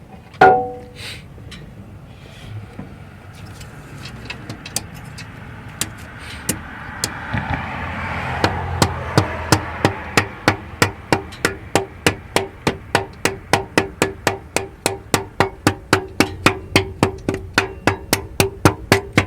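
A single metallic clank with a short ring about half a second in, then a long run of quick, even hammer taps on metal, about three a second, each with a ringing note.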